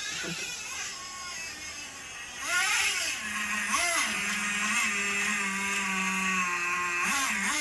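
Radio-controlled truck's motor revving, its pitch sweeping up and down with the throttle, then held steady for a few seconds before dropping back.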